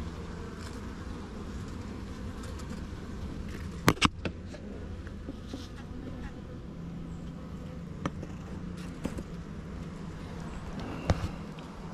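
Honeybees buzzing steadily in a hum, with a few sharp knocks: two close together about four seconds in, fainter ones later and another near the end.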